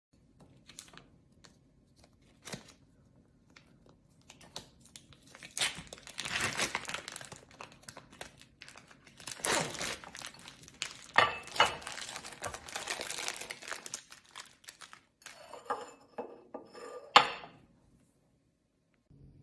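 A food-delivery box and its packaging being opened by hand: tearing, crinkling plastic and paper rustling in irregular spells, with scattered clicks and knocks and a sharp snap near the end.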